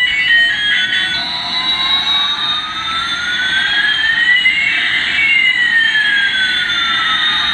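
Battery-powered toy's electronic sound effect through a small speaker. A short beeping tune ends about a second in, then two tones glide slowly past each other, one rising and one falling, over a hiss.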